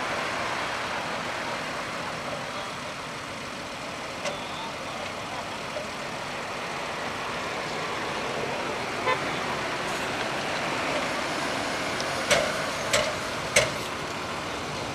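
Highway traffic passing steadily, with three sharp knocks in quick succession near the end.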